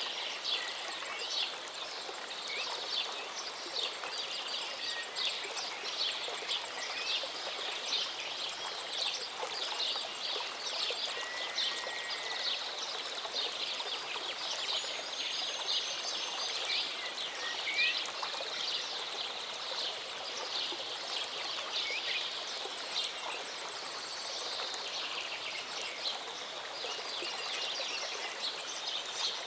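Small mountain stream or waterfall rushing steadily, with many birds chirping and trilling over it.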